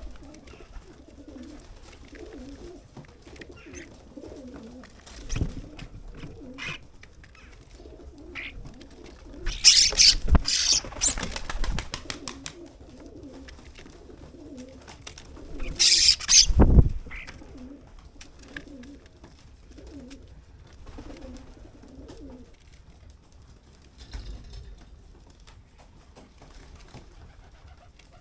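Birds squabbling at a garden feeder: soft cooing runs on in the background, broken by two loud, sudden flurries of flapping wings and scuffling, about ten and sixteen seconds in.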